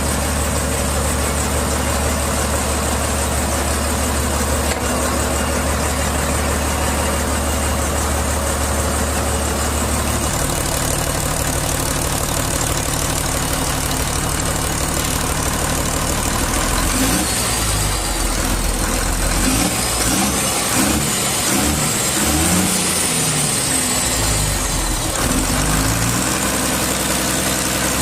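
Ashok Leyland marine diesel engine running steadily. Its speed changes about ten seconds in, then rises and falls several times before settling back to an even run near the end.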